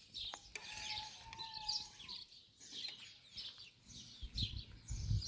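Birds chirping: short, high, falling chirps repeating about twice a second, with a brief held call about a second in. A few low thuds near the end.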